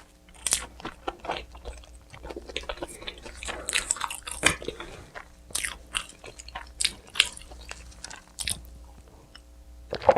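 Close-miked eating: repeated crisp bites and wet chewing at an irregular pace, with a faint steady hum underneath.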